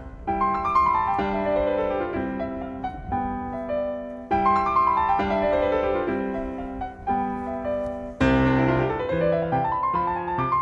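Background piano music: a solo piano playing flowing runs of notes that step downward, with a new phrase starting about every four seconds and a rising run near the end.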